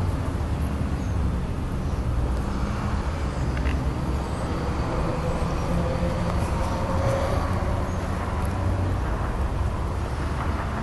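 Road traffic: a steady low rumble of passing vehicles, with a faint engine note rising and falling in the middle as one goes by.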